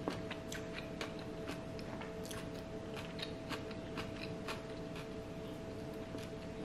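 A person chewing a mouthful of pupusa with the mouth closed: a string of small, irregular crunchy clicks, over a faint steady hum.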